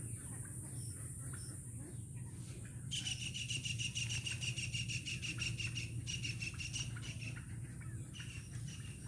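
A bird's rapid, evenly pulsed chirping trill that starts about three seconds in, breaks off briefly, and trails off near the end, over a steady low background hum.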